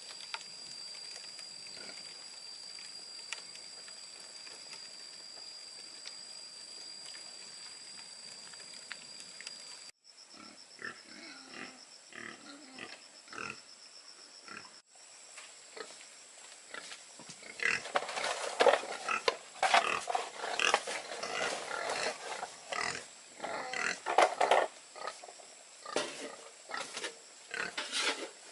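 Pigs squealing and grunting loudly and irregularly through the second half. Before that there is a steady high-pitched hum over faint hiss, which changes abruptly at two cuts.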